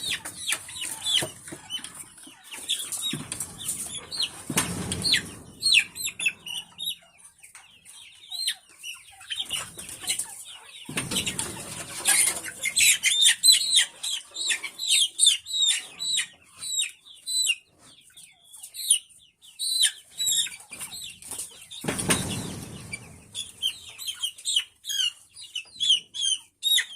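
A flock of chickens calling in many short, high, falling peeps, with three louder bursts of wing flapping, about three, eleven and twenty-two seconds in.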